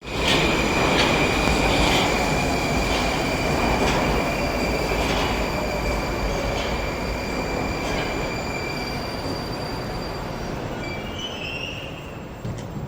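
Moscow metro 'Moskva' train (81-765 type) running at a station, slowing down. A steady high whine fades out about nine seconds in, the clicks from the rails come further apart, and the whole sound grows gradually quieter.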